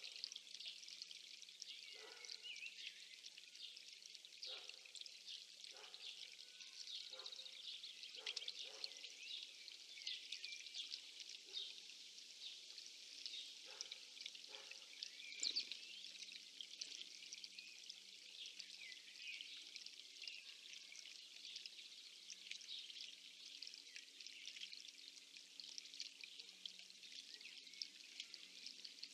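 Faint outdoor chorus of many small songbirds chirping and singing over one another without a break, with a few soft taps or splashes in the first half.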